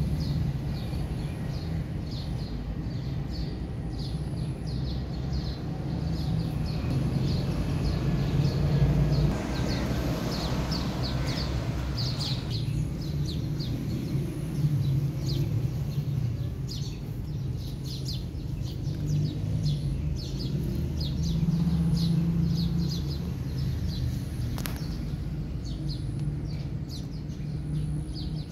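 Small birds chirping over and over, with a steady low rumble underneath.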